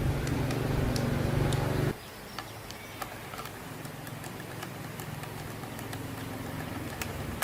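A steady motor sound that cuts off sharply about two seconds in, leaving a quieter steady hum with scattered light clicks.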